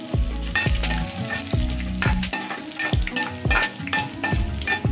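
Mustard seeds, dals, chillies and curry leaves sizzling in hot oil in a non-stick kadai while a spatula stirs them, knocking and scraping the pan about twice a second.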